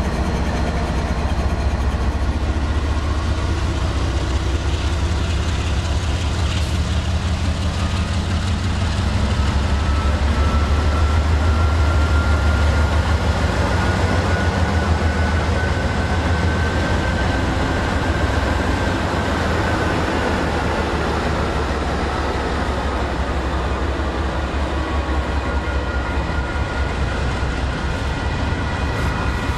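Norfolk Southern GE diesel locomotives (an ES44DC and two Dash 9-44CWs) passing close by at speed with a heavy, steady engine drone, loudest about halfway, while a faint whine rises and then falls. Toward the end the engines give way to the rolling noise of loaded intermodal well cars going by on the rails.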